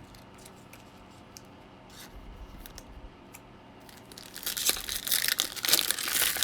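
A baseball-card pack's wrapper being torn open and crinkled: a few faint clicks, then about four seconds in, a loud rustling rip.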